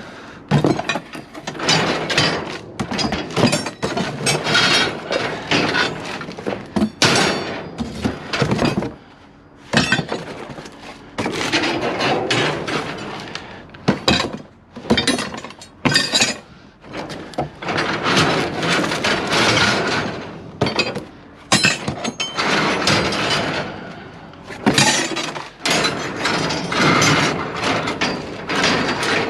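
Scrap pieces being handled and stacked by hand: continual clanking and clattering with hard knocks and scrapes, broken by a few short pauses.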